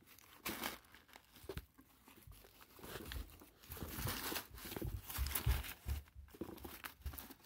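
Toy garbage truck and bin being handled: irregular plastic rustling and crinkling with small clicks and light knocks as the bin is dropped and its contents tipped.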